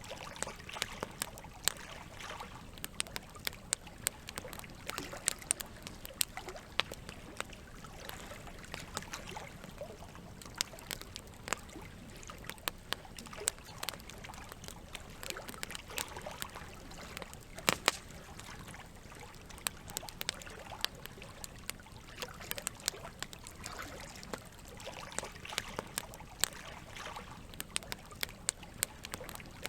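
Campfire crackling, with frequent sharp pops, the loudest about two-thirds of the way in, over steady trickling water.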